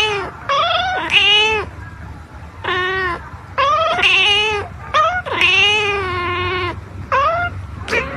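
A kitten meowing again and again, about seven meows, some short and some drawn out for over a second.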